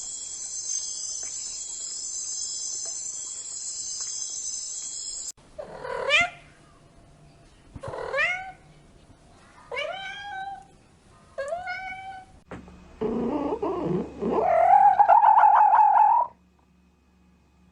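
A steady high hiss for about five seconds, then a cat meowing: four short meows about two seconds apart, followed by one longer, louder, wavering meow.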